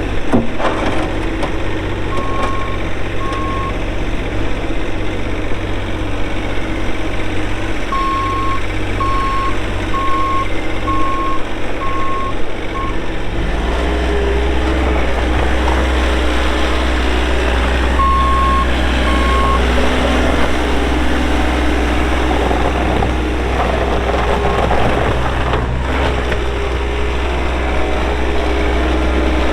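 Bobcat S450 skid steer's diesel engine running while the machine is driven, with its backup alarm beeping in short runs as it reverses: twice a few seconds in, about six times further on, and twice more later. About halfway through, the engine's low hum steps up and stays louder.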